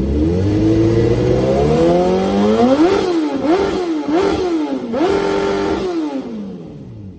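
2004 Suzuki GSX-R1000 inline-four engine being revved: the pitch climbs steadily for about three seconds, then three quick throttle blips, a short held rev, and it falls back toward idle near the end. It revs freely with no problems whatsoever.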